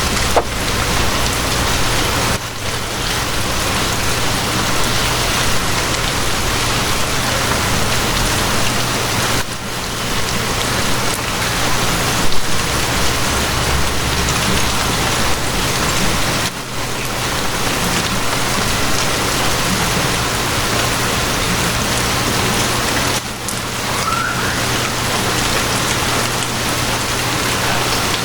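Steady rain falling on a surface, an even hiss with a low steady hum underneath; the rain dips briefly about every seven seconds.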